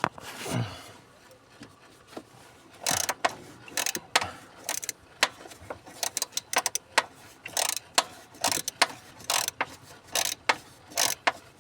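Ratchet tool clicking in quick, irregular runs of sharp ticks while screws holding a truck's gas pedal module are undone; the first few seconds are quieter, and the clicking starts about three seconds in.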